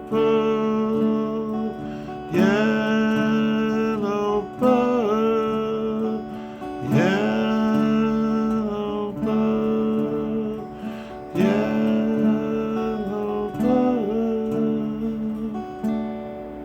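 Acoustic guitar strumming the closing chords of the song, each chord struck and left ringing for about two seconds before the next. The sound fades out near the end.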